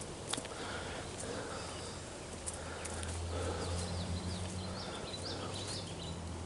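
Footsteps at a walking pace on a dry dirt and grass trail, a soft step about once a second. A steady low hum comes in about three seconds in.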